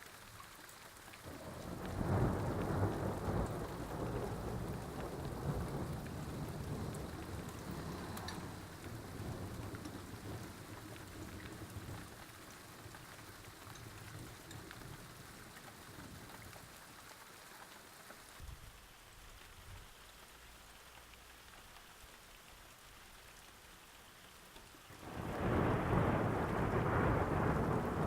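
Thunder rolling over steady rain. A long rumble builds about two seconds in and dies away over the next ten seconds, leaving the hiss of rain. A second, louder crash of thunder breaks near the end.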